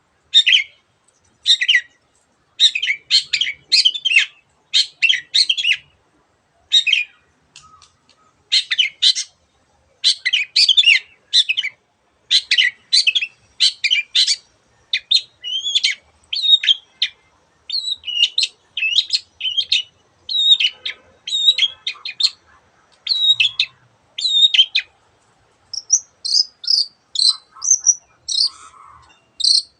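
Long-tailed shrike singing: rapid bursts of harsh chattering notes with short pauses between them. Later the song shifts to more varied, sliding whistled phrases, the kind of mixed song, imitations of other birds included, that this shrike is kept for.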